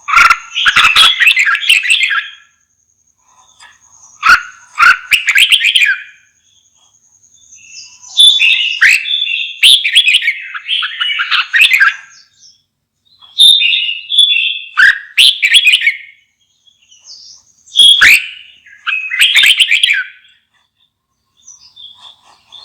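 Red-whiskered bulbul singing loud, bright phrases of quick warbled notes. The phrases come in bursts of one to four seconds with short pauses between them.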